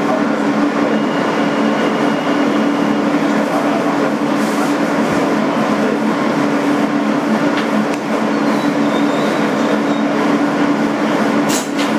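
Inside a 2008 Kawasaki R160B subway car: steady interior noise of the car with a constant electrical hum. There is a short sharp knock near the end.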